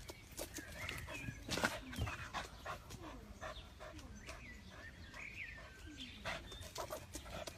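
A dog making several short, high calls among scattered clicks and knocks.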